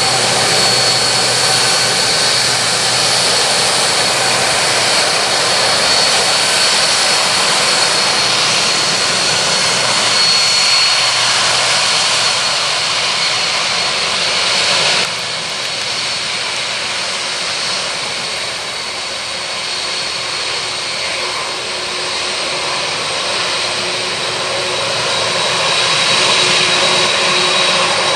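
Boeing 747-400F jet engines running: a steady high whine over a broad rush of noise. The level drops suddenly about halfway through, and a fresh low hum and high whine come in near the end.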